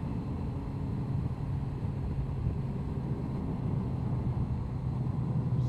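Honda CBR1100XX Blackbird's inline-four engine running at a steady cruise, mixed with wind and road noise.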